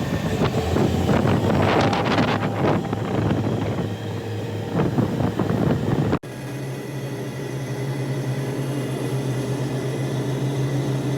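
Wind on the microphone and busy outdoor noise with scattered knocks, then, after a sudden cut about six seconds in, a steady low motor drone.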